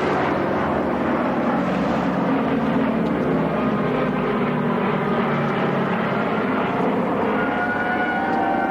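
Propeller-driven piston aircraft engines running steadily overhead at an airshow. Clearer tones come into the drone about seven seconds in.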